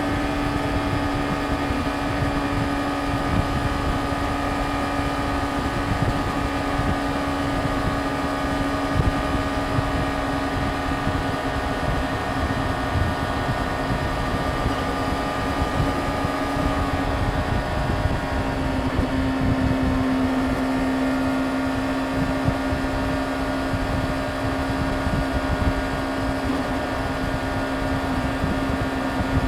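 Yamaha YZF-R6's inline-four engine running at a steady cruise, with wind noise on the microphone. Its pitch holds and then drops slightly a little past halfway.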